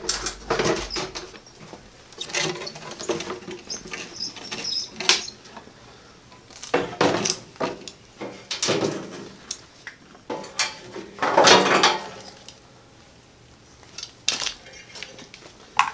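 Irregular metal clanks, knocks and rattles of parts being handled and fitted as the lawnmower's top body piece is put back on, with a louder burst of clattering about two-thirds of the way through.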